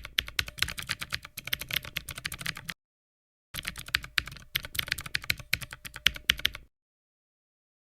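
Computer keyboard typing: two runs of rapid key clicks, each about three seconds long, with a short gap between; both stop abruptly.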